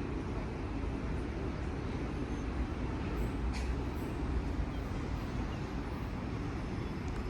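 Sydney Trains electric passenger train running at the station, a steady low rumble.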